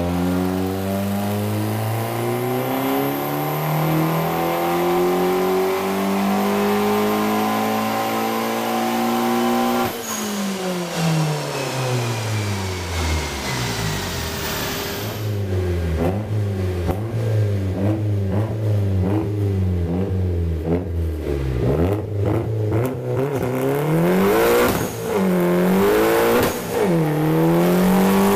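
Hyundai Genesis Coupe engine making a pull on a chassis dyno. The engine note climbs steadily under load for about ten seconds, with a faint high whine rising alongside, then the throttle closes and the revs fall away. After a short lull the engine runs on with the revs rising and dipping again and again, in deeper swings near the end.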